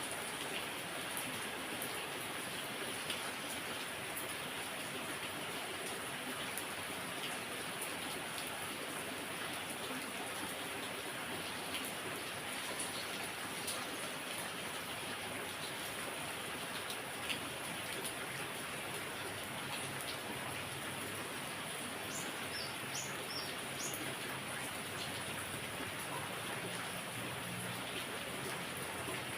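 Heavy rain falling steadily, with scattered individual drops ticking. About three quarters of the way through, a bird gives four short, high, rising chirps.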